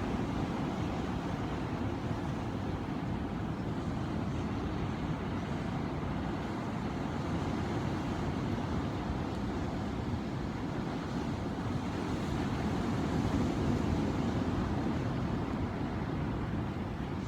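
Ocean surf: a steady, low rush of waves that swells slightly about thirteen seconds in.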